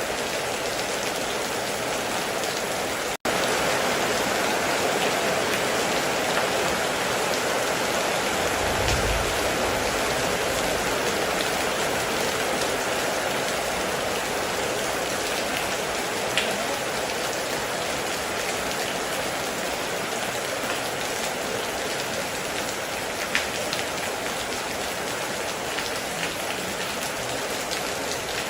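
Heavy rain falling steadily, with a brief low rumble about nine seconds in and a few sharper drop impacts. The track cuts out for an instant about three seconds in.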